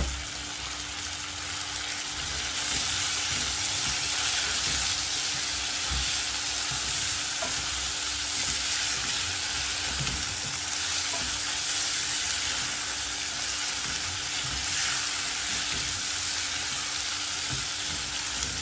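Potatoes, onions and tomatoes sizzling steadily as they fry in a metal pan, stirred with a wooden spoon that knocks against the pan now and then. There is a sharp knock right at the start, and the sizzle grows louder about two and a half seconds in.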